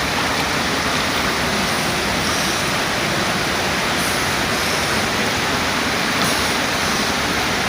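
Steady, loud rush of water with no breaks or strokes.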